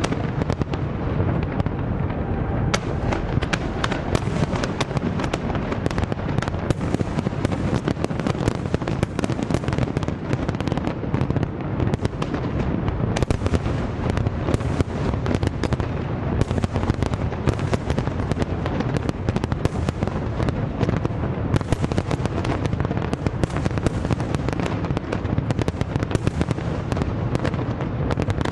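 Fireworks going off in a dense, continuous barrage of bangs and crackling, with no break.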